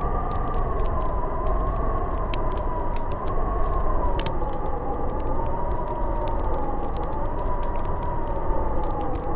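Snowstorm wind howling, a wavering whistling tone that rises and falls in slow swells and sinks gradually in pitch, over a steady rush of wind noise. Scattered faint ticks sound throughout.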